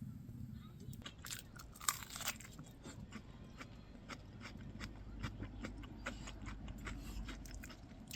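Crunchy food being bitten and chewed close up: a run of short, crisp crunches that starts about a second in and keeps going.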